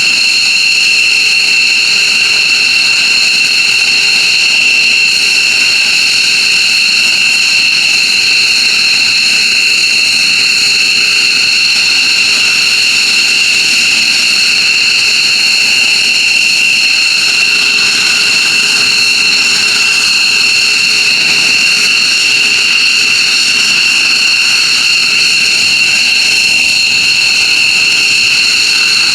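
F-15J Eagle's Pratt & Whitney F100 turbofan jet engines running steadily on the ground, with a high-pitched whine that holds constant.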